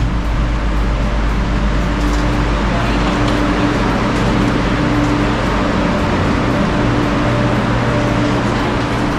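Steady running noise of a moving passenger train heard from inside the car: an even rushing hiss over a low hum.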